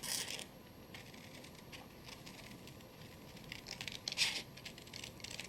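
Scissors cutting through paper, short snips with paper rustling as it is handled, and a louder rustle about four seconds in.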